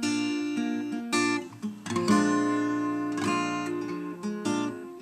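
Acoustic guitar strumming and picking chords, an instrumental passage between sung lines.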